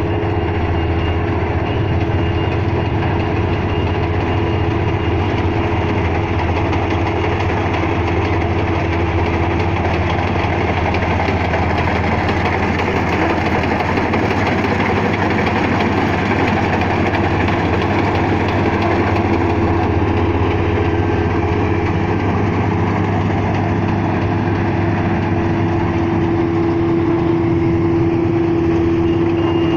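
Kubota DC-35 combine harvester running steadily: a constant engine hum with a steady whine from the machinery that grows a little stronger near the end.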